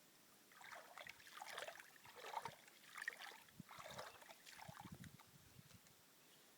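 Faint splashing and sloshing of water: a run of irregular splashes lasting about four and a half seconds, then dying away.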